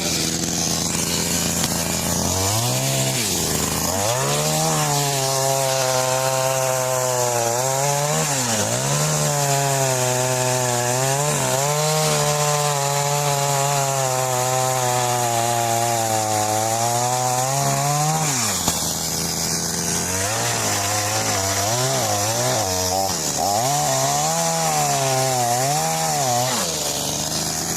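TCS 4600 chainsaw cutting into a tree: the engine holds a steady high pitch under load for long stretches, dropping back toward idle a few times between cuts, then revved up and down in short blips near the end.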